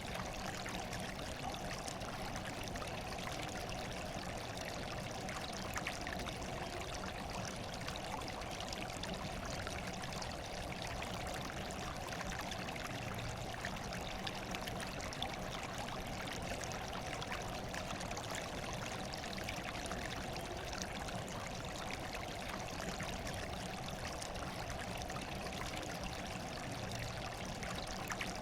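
Steady running water, an even rushing with no breaks or changes.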